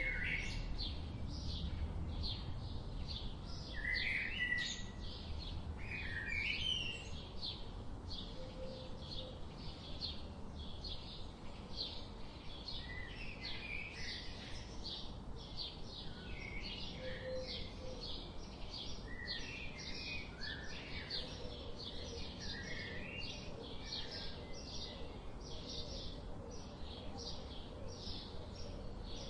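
Birds chirping: a quick, steady run of short high chirps, with lower calls from other birds mixed in, over a steady low background rumble.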